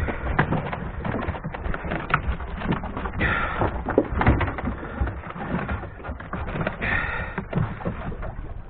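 Irregular knocks and clatter of handling fish and fishing gear in a small boat. Twice a short, higher-pitched call-like sound breaks in, about three and a half seconds apart.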